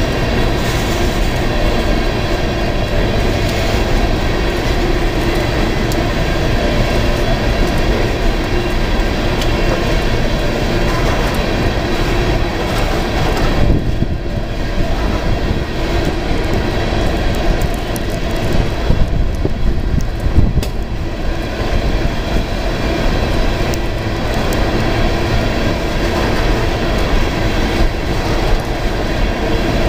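Freight train of open-top coal cars rolling past close by: a loud, steady rumble of wheels on rail, with a few sharper knocks about two-thirds of the way through.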